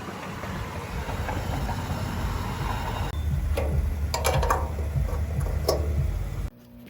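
A car being driven: a steady low rumble of engine and road noise with a few brief knocks, which cuts off suddenly about six and a half seconds in.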